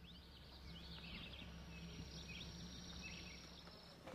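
Faint bird chirps, a few short quick calls, over a quiet steady outdoor background.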